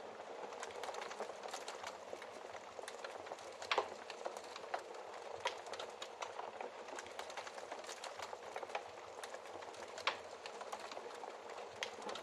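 Wood fire burning in a fireplace: a steady hiss with irregular sharp crackles and pops, two louder pops about four seconds in and about ten seconds in.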